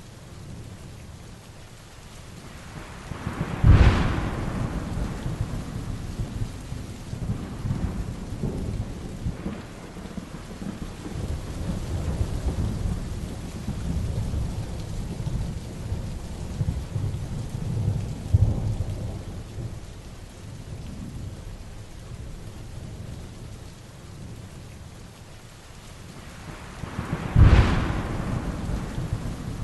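Heavy rain falling steadily during a thunderstorm, with two sudden thunderclaps, one about four seconds in and one near the end, each fading into rumble, and low rolling thunder in between.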